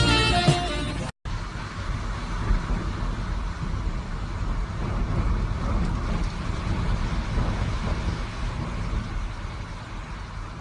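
Music cuts off about a second in, then a steady rumbling noise with a hiss on top, the kind made by outdoor wind or road traffic.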